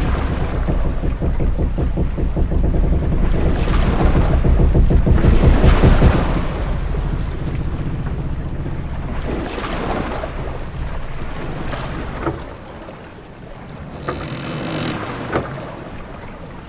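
Ship-at-sea ambience: waves washing and wind rushing around a ship. It is loud and heavy for the first six seconds, then eases, with a couple of short sharp knocks later on.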